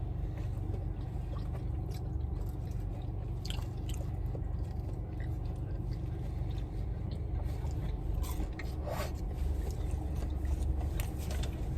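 A person chewing and biting food close to the microphone, with scattered small crunches and clicks over a steady low hum.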